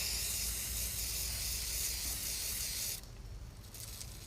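WD-40 aerosol can spraying in one continuous hiss that stops about three seconds in.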